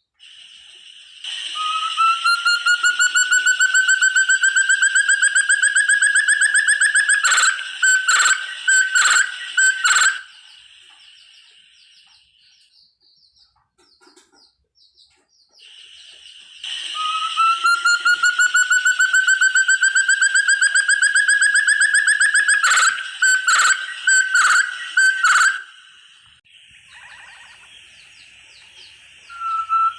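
Forest partridge call (burung terung, puyuh hutan): a rapid series of whistled notes, climbing slowly in pitch for several seconds and ending in a few separate louder notes, given twice over a steady high hiss.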